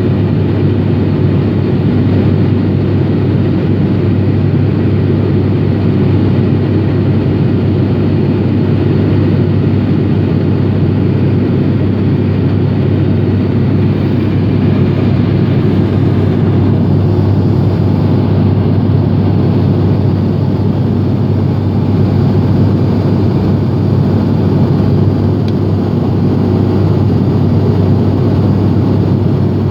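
Steady drone of an ATR72-500's Pratt & Whitney PW127 turboprops and six-blade propellers, heard inside the passenger cabin while climbing out after take-off, with a strong, even low propeller hum under a broad rush of noise.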